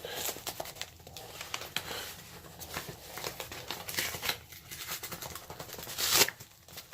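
Mailer packaging being handled and opened: irregular crinkling and rustling with scattered small clicks, and a louder rustle about six seconds in.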